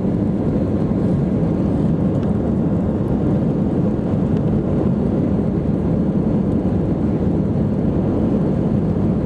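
Cabin noise inside an Airbus A319 climbing out just after takeoff with the landing gear up: a steady, low, deep roar of the jet engines and rushing airflow, heard from a window seat.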